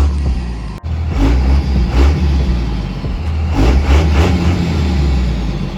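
Diesel pickup truck engine running and revving, a loud low drone that swells and eases. It breaks off for an instant about a second in, then carries on.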